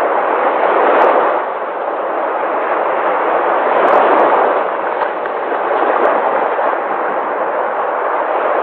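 Sea waves washing in continuously, the rush of surf swelling about a second in and again around four seconds in.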